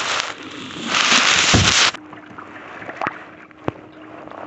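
Kayak paddling on a lake: water sloshing and splashing against the hull, loud for about two seconds, then cutting off suddenly to quieter lapping with a few light knocks and a faint steady hum.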